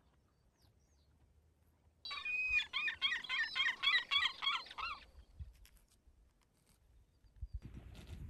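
A bird singing a fast run of repeated, warbling high notes, about five a second, for some three seconds. A low rustling, crunching noise starts near the end.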